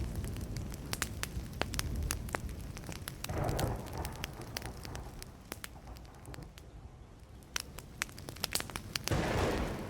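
Burning wood fire crackling, with frequent sharp pops and snaps over a low rushing bed. Two brief louder rushing swells come about three seconds in and again near the end.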